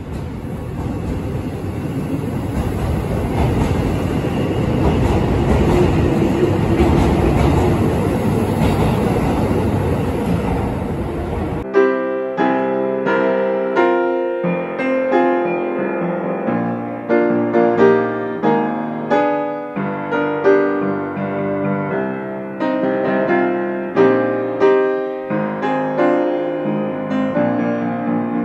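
Electric limited-express train running along a station platform: a steady rumble that builds and then eases slightly, with a thin, steady high whine above it. About twelve seconds in it cuts off abruptly to solo piano music, which plays to the end.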